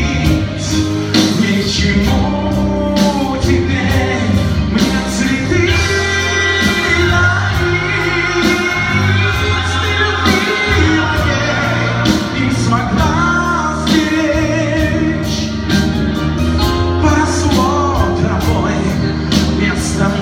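Live vocal-instrumental pop band playing a song, with a vocal line over electric instruments and a steady drum beat.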